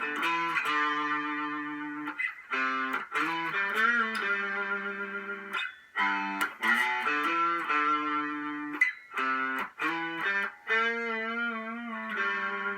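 2020 Epiphone Les Paul Special electric guitar on its middle pickup setting, both P-90 pickups on, played through a Vox AC4TV valve amp with light distortion. It plays short phrases of strummed chords and held notes, with vibrato on a sustained note near the end.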